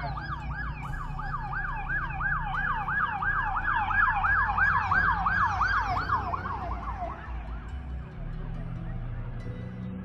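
Emergency vehicle siren on a fast yelp, about four rising-and-falling sweeps a second, fading out about seven seconds in, over a steady low drone of vehicle engine and road noise.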